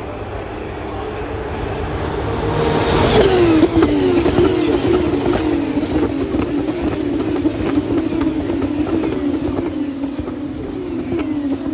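High-revving racing car engines passing at speed. The sound builds to its loudest about three seconds in, dropping in pitch as a car goes by, then the engine note keeps rising and falling.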